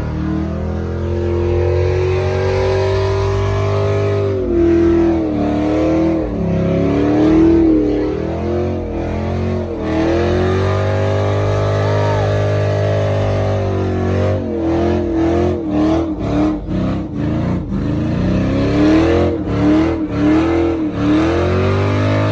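Truck engine revving hard: held at high revs with slow swells in pitch, then blipped up and down in quick stabs over the last several seconds.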